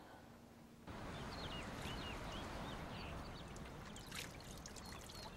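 Faint room tone, then about a second in a steady outdoor hush begins, with small birds chirping repeatedly in short, high calls.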